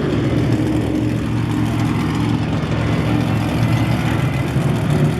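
Monster truck engine idling steadily with a deep, even low rumble.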